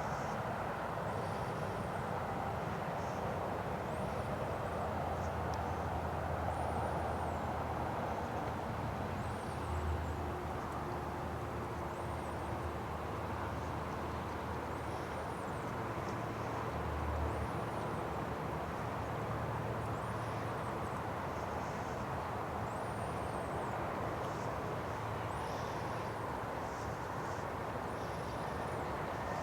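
Steady, even rumble of jet aircraft engines running across the airfield. Short, high chirps repeat every second or two over it.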